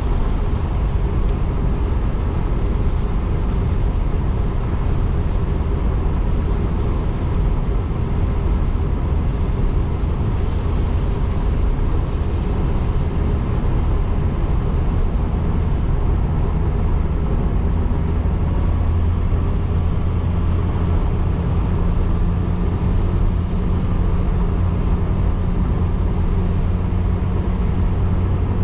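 Car on the move: steady road and engine rumble, heaviest in the low end, with a low steady hum coming up about two-thirds of the way through.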